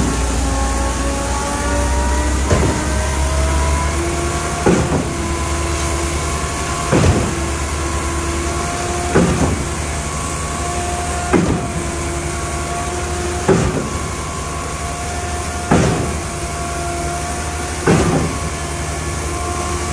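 Zoomlion 60-metre truck-mounted concrete pump on a Scania chassis running its pumping unit: a steady engine and hydraulic hum with a whine, and a sharp clunk about every two seconds as the pumping cylinders reverse stroke and the valve shifts over.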